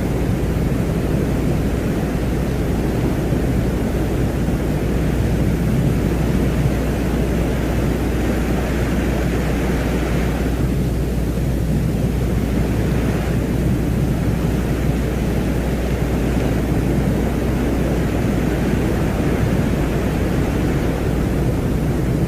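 Ambient space-sound track presented as the sound of Venus: a steady, dense, deep rumbling noise with a constant low hum beneath. A brighter, hissier layer swells twice near the middle.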